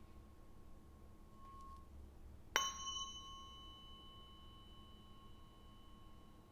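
Tuning fork ringing with a steady pure tone, then struck again about two and a half seconds in with a sharp click, ringing on with higher overtones that fade slowly. It is being used for Biofield Tuning sound healing.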